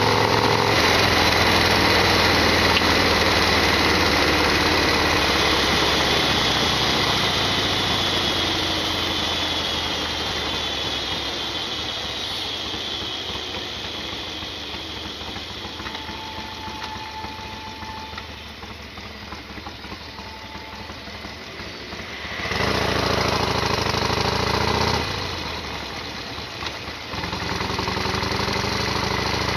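Harley-Davidson Sportster XL1200R's air-cooled V-twin engine running under way. The sound fades gradually with a falling pitch over about twenty seconds as the revs drop. It then rises sharply as the throttle opens, dips briefly, and picks up again near the end.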